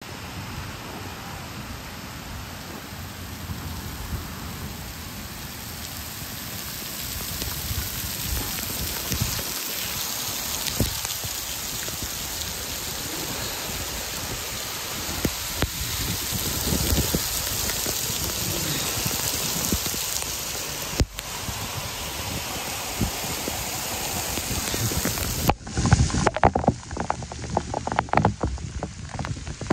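Heavy rain pouring onto a paved street, a steady hiss that grows louder after several seconds as the downpour gets going. Near the end the sound turns patchy, with irregular thumps and buffeting close to the microphone that are louder than the rain.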